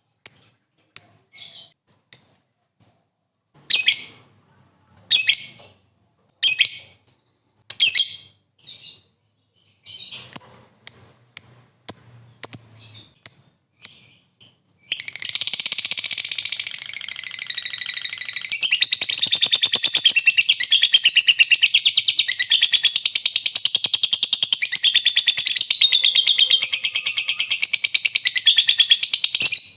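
Lovebird calling. It gives separate sharp chirps for about the first half, then breaks into one continuous, rapid, high chattering trill (the long 'ngekek') that runs on unbroken.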